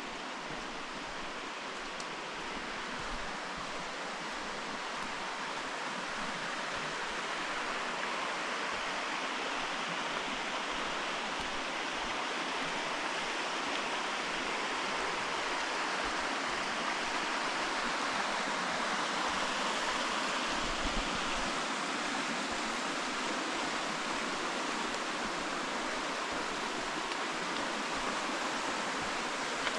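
Running water of a forest stream, a steady rush that grows slowly louder.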